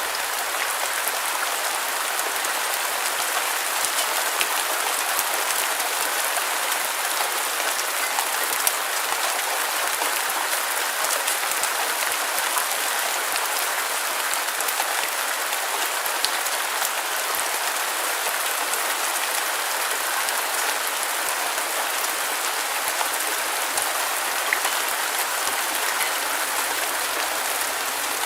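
Steady rain, a dense even hiss thick with tiny drop ticks and no pauses or swells, played as white noise for sleep.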